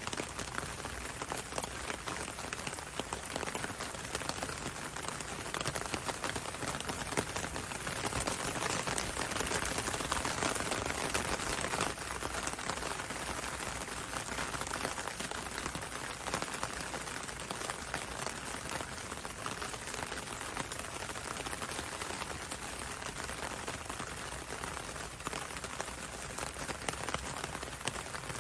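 Steady rain pattering on a window pane and hissing on a road, a dense stream of fine drop ticks. It grows a little heavier about eight seconds in, then eases back.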